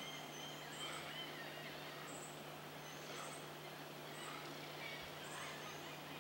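Quiet outdoor ambience: short high chirps of a small bird about once a second over a steady low hum.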